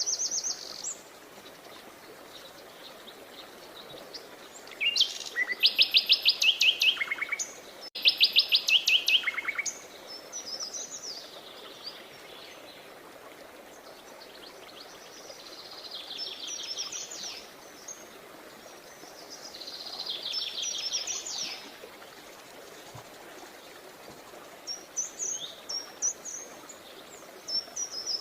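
Songbirds singing: two loud, fast trilled phrases about five and eight seconds in, softer trills later, and short high chirps near the start and the end, over a steady faint hiss.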